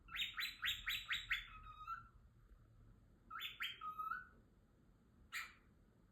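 Cockatiel chirping: a quick run of five rising chirps, then two more about three seconds in, and a single short call near the end.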